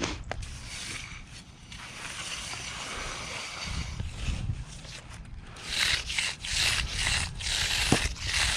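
A float being worked across wet concrete in repeated scraping strokes, which come faster and louder in the second half.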